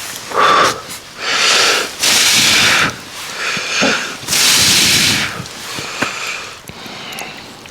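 A person breathing hard and sniffing close to the microphone: a run of noisy breaths, each lasting up to about a second.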